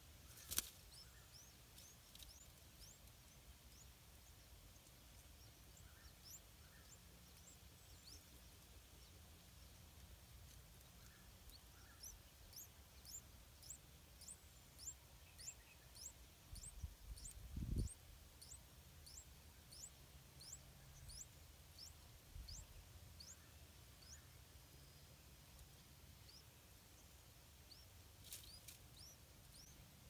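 Yellow-vented bulbul nestlings begging with faint, thin, very high-pitched calls, about one or two a second, thickest while the parent feeds them at the nest. Two brief soft knocks from the parent moving at the nest, one near the start and a lower one past the middle.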